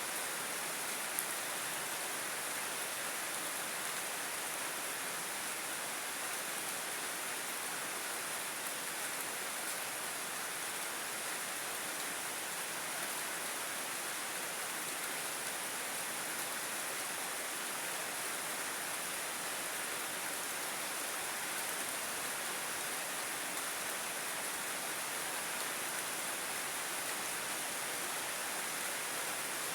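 Heavy rain falling in a steady, even hiss, with one brief tick about a second in.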